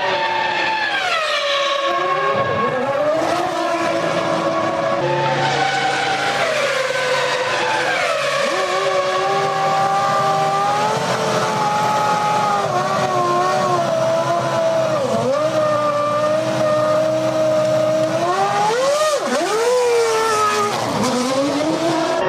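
2001 Formula One car's 3.0-litre V10 engine at high revs, its pitch dropping several times and climbing back as it slows and accelerates, with a steep fall and rise near the end.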